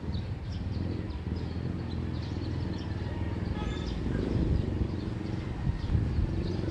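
Early-morning neighbourhood ambience: a steady low rumble under many birds chirping, with one brief louder bird call about halfway through.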